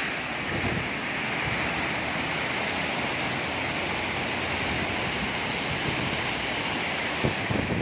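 Waterfall rushing, a steady, even roar of falling water, with a couple of low bumps near the end.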